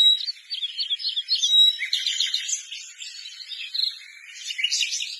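Small birds chirping: dense runs of short, high-pitched chirps with a few brief held whistled notes.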